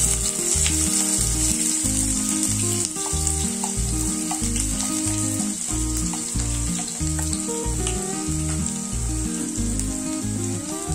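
Chopped onion and cumin seeds frying in hot oil in a kadhai: a steady sizzle, over background music with a regular beat.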